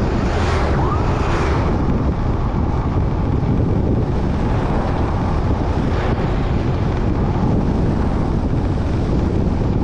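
Steady wind rush buffeting the microphone of a rider on a moving motorbike, with the rumble of the ride underneath.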